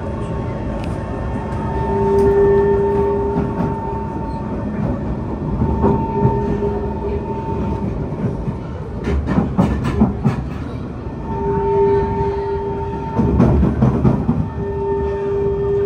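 Kawasaki C151 metro train running, heard from inside the car: a steady rumble and rattle with a pitched hum that comes and goes several times. Bursts of clacking come about nine seconds in and again near the end.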